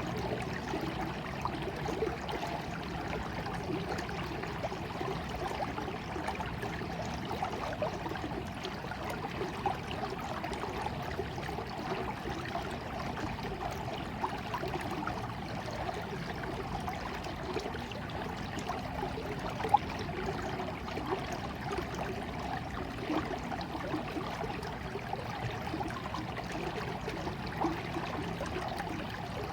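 Stream water flowing and trickling steadily, with one brief louder sound about twenty seconds in.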